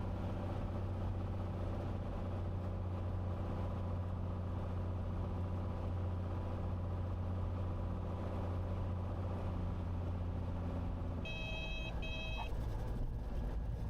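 Cessna 182's six-cylinder piston engine running at low power inside the cockpit, a steady low drone during the landing rollout. The drone drops about eleven seconds in, followed by a short two-part electronic beep.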